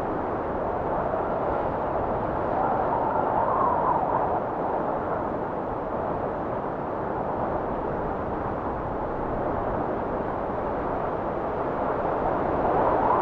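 Strong blizzard wind blowing steadily, with slow gusting swells and a faint whistling rise and fall in pitch.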